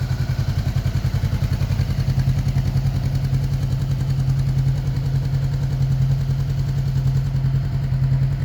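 2019 Honda CBR500R's parallel-twin engine idling steadily through an aftermarket Leo Vince exhaust, with an even, regular exhaust pulse.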